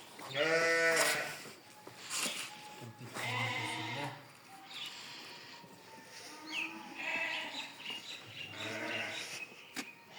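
Sheep bleating, about four calls, the first and loudest about half a second in.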